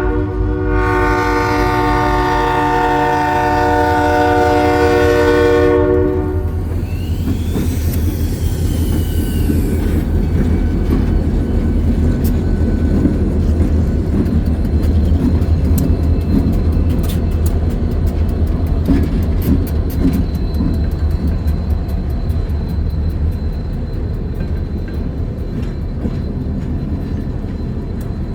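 Diesel locomotive horn sounding a chord, a short break just after the start and then a long blast held for about five seconds. Then the locomotives' diesel engines rumble and the wheels click rapidly over the rail joints as the train rolls past.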